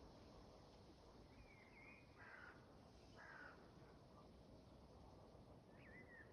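Faint bird calls over a quiet background hiss: a few short calls in the first half, then more starting again near the end.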